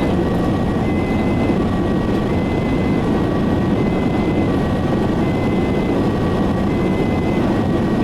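An ambulance's two-tone siren alternates between a high and a low note roughly every three-quarters of a second. It sits under the louder, steady engine and road noise of the moving ambulance, heard from inside.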